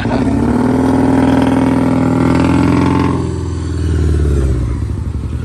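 Honda Accord's loud exhaust as the engine is revved up and held for about three seconds, then drops back to a lower rumble.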